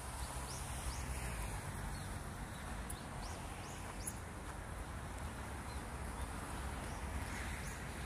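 Birds chirping: a string of short, high downward-sliding chirps over a steady outdoor background hiss.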